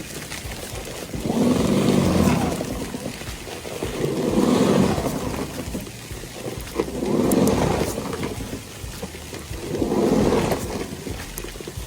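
Electric snow shovel running, its sound swelling and fading about every three seconds.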